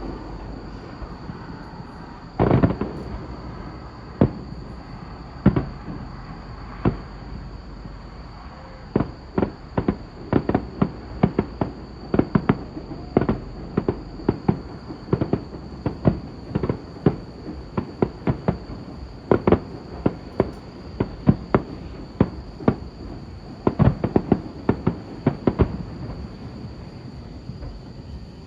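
Fireworks bursting: a few separate booms in the first several seconds, then a rapid run of bangs and crackles, several a second, from about nine seconds in.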